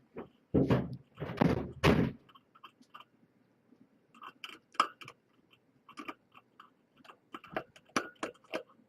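Kittens moving about their pen: three loud thumps in the first two seconds, then scattered small clicks and crunches.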